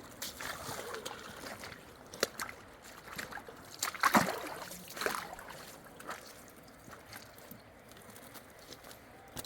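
River water sloshing and splashing, with scattered small clicks and knocks and a louder sudden splash-like noise about four seconds in.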